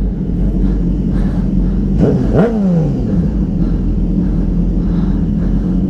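Sportbike engine idling with a steady rumble, with one quick rev blip about two seconds in that rises and falls back to idle.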